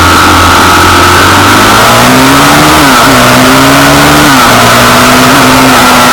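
Pitbike engine running loud, its pitch rising and falling as the throttle is worked.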